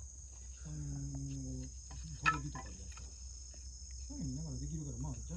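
Crickets chirping steadily in the background. Over them come a person's hummed or drawn-out voice sounds, one held about a second in and a wavering one near the end, and a single sharp knock a little past two seconds in.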